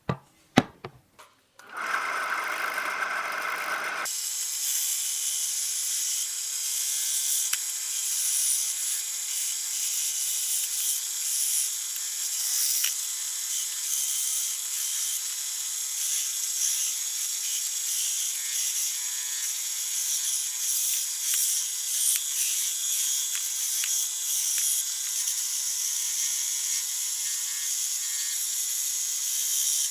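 A few sharp knocks, then a power tool starts and runs steadily with an even whirring hiss.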